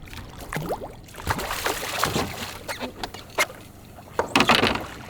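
Water splashing and slopping in two bursts, about a second in and again near the end, with a few sharp knocks, as a hooked giant trevally is lifted out of the water at the side of a small boat.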